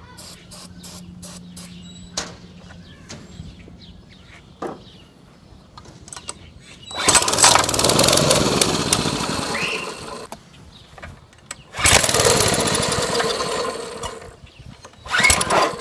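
Mini bike's small engine firing on a spray into the intake, running loudly for about three seconds and dying, then catching again for a few seconds and dying once more, with a short sputter near the end. It won't keep running after sitting for years on old fuel; the owner suspects the carburetor needs taking off and cleaning.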